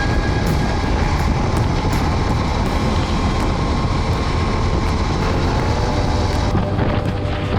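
Motorcycle under way: steady engine sound mixed with heavy wind and road rush.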